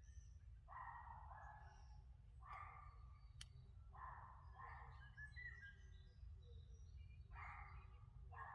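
Faint, raspy bird calls repeated about four times, with a few thin high chirps, over a low steady rumble.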